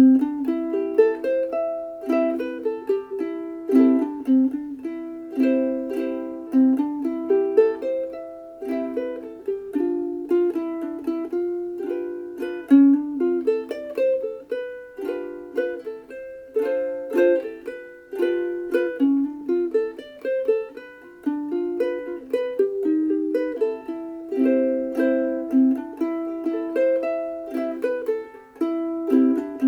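Sumi UK-D3M soprano ukulele, Honduras mahogany body in the Ditson dreadnought shape, played solo: a continuous run of plucked melody notes and chords that ring and decay.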